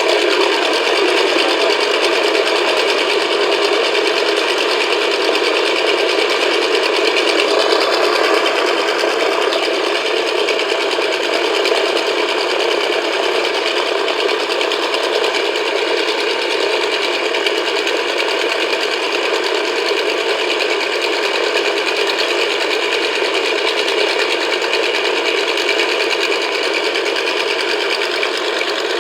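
Nakajima Sakae 21 fourteen-cylinder twin-row radial engine of an A6M5 Zero fighter running steadily, heard on an old recording with no deep bass.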